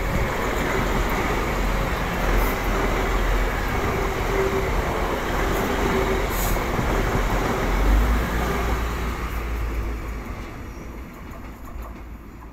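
Class 185 diesel multiple unit running past close by, a steady rumble of diesel engines and wheels on rail with a faint whine coming and going. The sound fades over the last few seconds as the train moves away.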